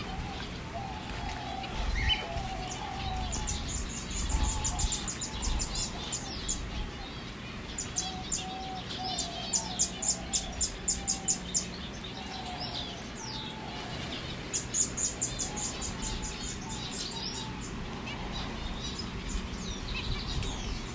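Aviary songbirds singing, led by a goldfinch. Runs of rapid, high trilled notes lasting a few seconds each come three times, over softer, lower wavering calls.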